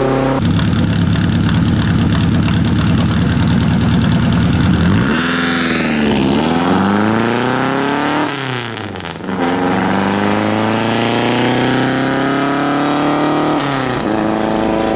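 1933 Riley Brooklands racing car's four-cylinder engine being revved at the start, the revs blipped down and up twice, then pulling away hard with the pitch climbing for several seconds before dropping suddenly near the end at a gear change.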